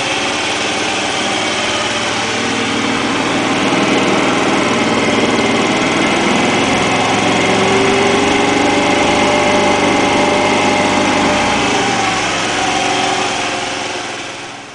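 Small moped scooter engine running steadily, a little louder after a few seconds, then fading away near the end.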